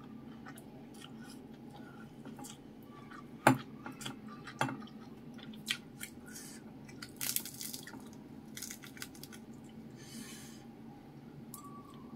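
Close-miked chewing of a handful of rice and crispy fried fish, with scattered sharp mouth clicks, the loudest about three and a half seconds in, over a faint steady low hum.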